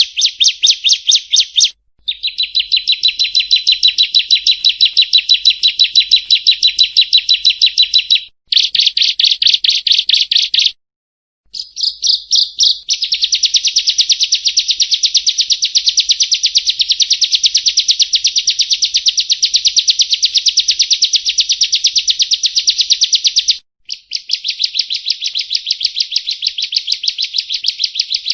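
Prinia song: long runs of rapid, evenly repeated high chirps, broken by a few brief pauses.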